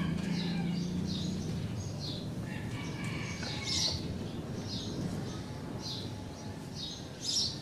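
Small birds chirping: short, high calls repeating about once a second, over a steady low hum.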